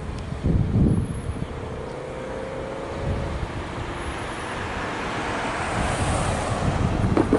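Road traffic passing, one vehicle swelling up and easing off about six seconds in, over a low rumble.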